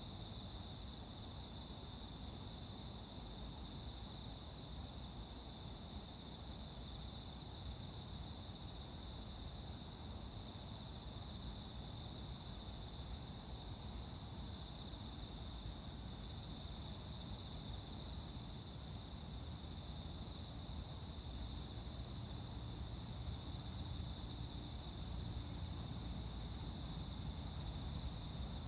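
A continuous chorus of singing insects, a steady high-pitched trilling without breaks. Beneath it a low rumble rises toward the end.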